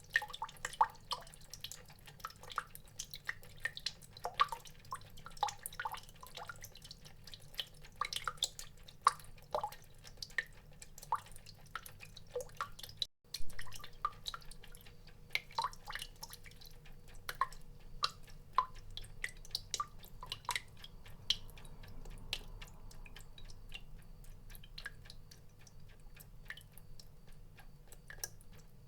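Water drops falling, an irregular patter of many small drips and plinks, some with a clear pitch. The sound breaks off for a split second about halfway through, then the dripping goes on, a little sparser.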